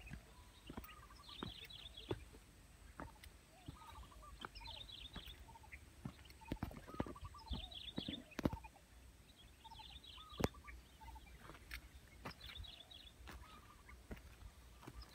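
Birds calling in repeated short bursts of rapid chattering notes every second or two, with lower single notes between, over scattered soft knocks and thumps.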